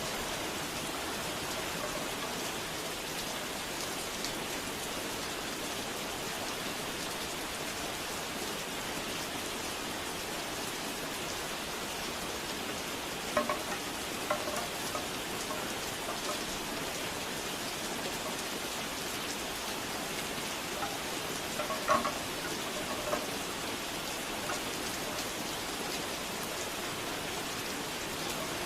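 Steady rain falling. Twice, about halfway through and again near the end, there is a short cluster of hollow knocking tones from bamboo wind chimes.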